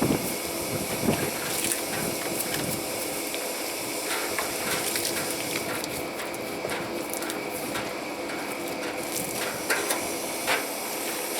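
High-pressure washer spraying water against a machine, its pump running steadily, with scattered clicks and knocks.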